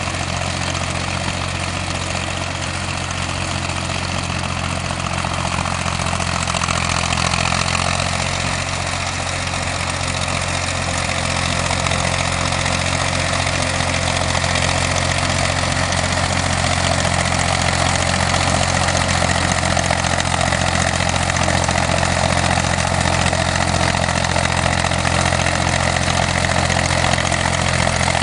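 Tractor diesel engine running steadily, with a broad mechanical clatter over its low hum, growing a little louder about halfway through.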